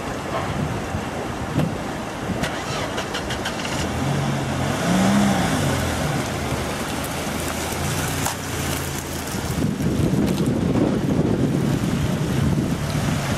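Off-road vehicle engine running, revving up and back down once about five seconds in, then running on under a steady rushing noise of water and wind that grows louder near the end.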